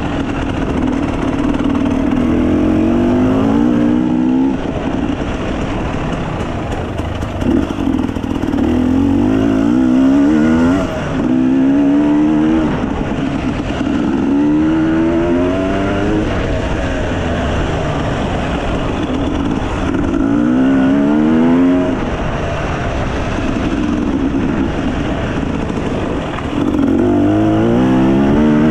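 Enduro dirt bike engine under way, repeatedly accelerating with its pitch rising and then dropping back, about six times.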